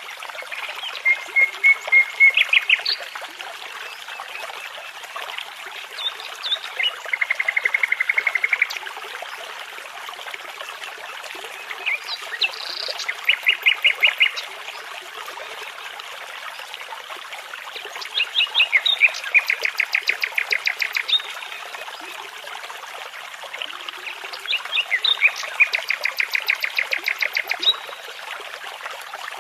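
A nightingale singing in separate phrases of rapid repeated notes and trills, about five phrases with pauses of a few seconds between them, over the steady rush of a babbling brook.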